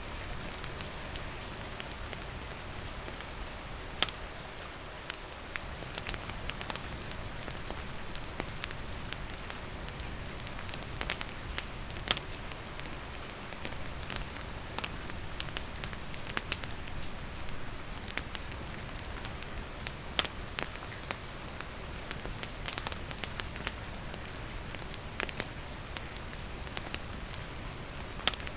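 A wood campfire crackling with sharp, irregular pops over steady rain falling on the surrounding forest and wooden roof.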